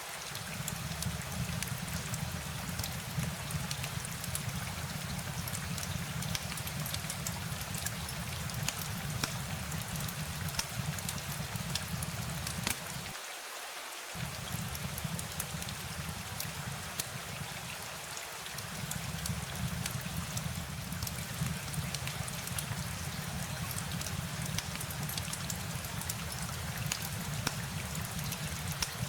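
Steady rain, with many close drops ticking, over a low rumble that drops out for about a second near the middle.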